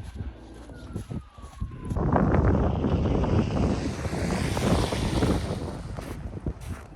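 A vehicle passing close by on a snowy road: a loud rush of engine and tyre noise that rises suddenly about two seconds in, with a hiss that swells and then fades near the end. A faint, falling, siren-like tone sounds in the first two seconds.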